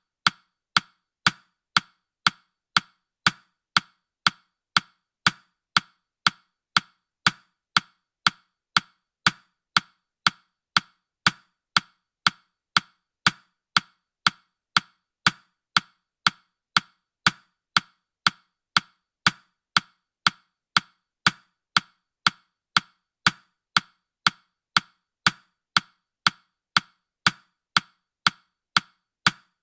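Clock-style ticking sound effect of a countdown timer: short, sharp wooden clicks at an even, steady pace.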